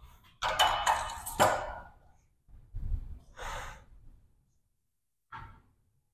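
A man breathing out hard in a few forceful exhales and gasps, as during heavy exertion. There is a short sharp knock in the first and loudest exhale, and a short puff near the end.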